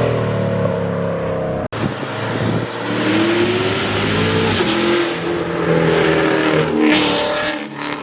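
A car engine revving hard as the car accelerates, its pitch climbing, dropping once about five seconds in and climbing again. The sound breaks off for an instant just before two seconds in.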